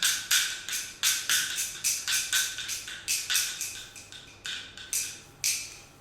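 A run of sharp percussive strikes, wood-block-like, each with a short ringing tone, at about two to three a second in an uneven rhythm.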